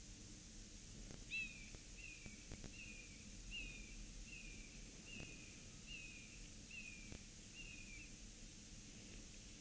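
Bald eagle calling: a run of about ten short, high, downward-slurred chattering notes, roughly one every three-quarters of a second, over a faint steady hiss, with a few light knocks among them.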